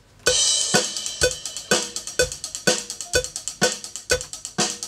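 Drum kit played to a metronome click: a crash cymbal opens it, then bass drum and cymbals keep a steady beat over the click, which ticks about twice a second.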